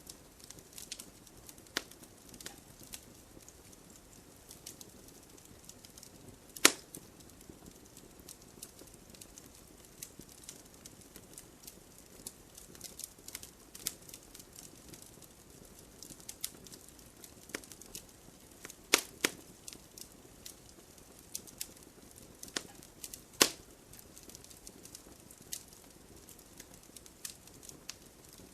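Wood fire burning in a fireplace: a faint steady hiss under frequent irregular crackles, with three loud sharp pops.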